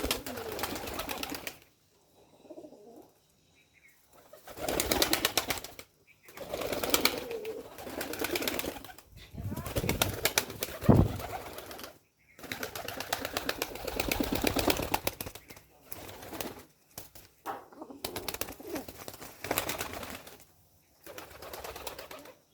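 Pigeons at a feeding, with bird sounds and wing flutters coming in busy stretches of a second or two, broken by short quiet gaps.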